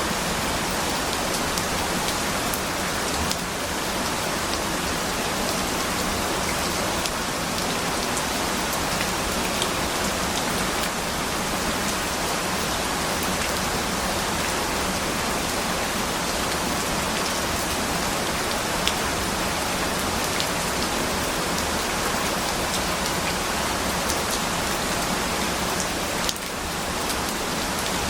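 Steady rain: a dense, even hiss of falling rain with scattered sharper drop ticks. The level dips briefly about three seconds in and again near the end.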